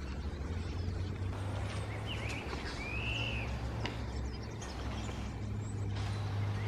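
Wild bird calls: a few short whistled notes and one arched, drawn-out whistle about three seconds in, over a steady low hum.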